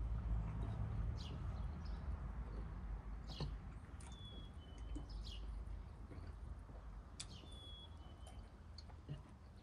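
Birds calling in a garden: scattered short high chirps and a two-note falling whistle that repeats about every three seconds, over a low rumble that is strongest in the first few seconds.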